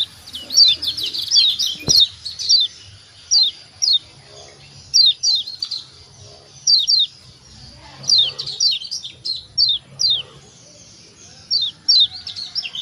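Yellow white-eye (kecial kuning) giving rapid, repeated "ciak" calls: short high chirps, each sweeping downward, singly and in quick runs of two or three. This is a lure call used to set caged birds calling.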